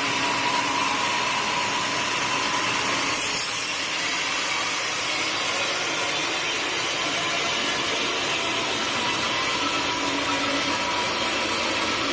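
Sawmill saw running and cutting through a teak log: a steady whine and rasp of the blade in the wood, with a short, sharp high hiss about three seconds in.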